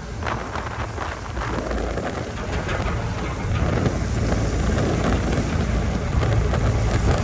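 Car ferry's engines droning steadily under way, with wind buffeting the microphone and a rushing noise that swells and grows louder toward the end.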